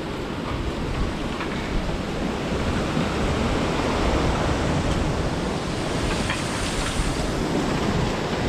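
Strong gusty storm wind rushing through palm trees and bamboo, a steady surf-like roar that swells a little midway, with wind rumbling on the microphone.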